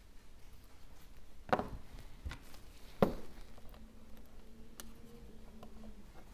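Light clicks and taps of small repair tools and phone parts being handled, with two sharper clicks about a second and a half in and about three seconds in, the second the loudest.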